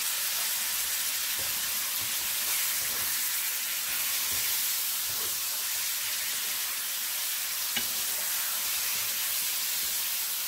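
Whole bilimbi fruit sizzling steadily in hot mustard oil with garlic and spices in a nonstick pan, stirred with a wooden spoon. One small click comes about three-quarters of the way through.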